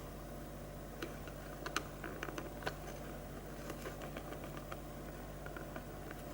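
Scattered light clicks and taps, as of small parts being handled, most frequent from about a second in to five seconds in, over a steady low electrical hum.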